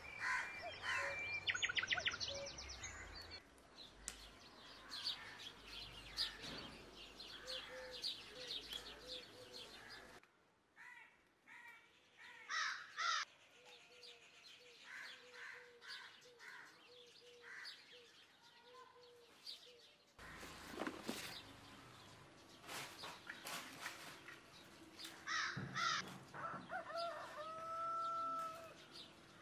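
Birds chirping and calling, many short calls overlapping, with a longer held call near the end. The background changes abruptly twice.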